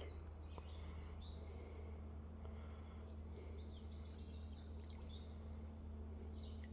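Songbirds calling and chirping, a run of short high notes that fall in pitch, over a faint steady low background noise.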